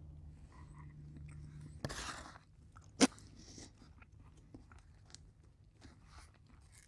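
Faint, close-miked chewing of a mouthful of baked beans, with one sharp click about three seconds in.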